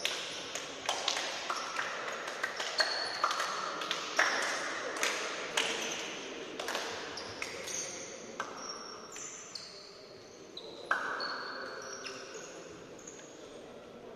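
A run of sharp knocks and taps, many followed by a brief ringing tone at varying pitches, coming thick for the first several seconds and then thinning out, with one louder hit near the end.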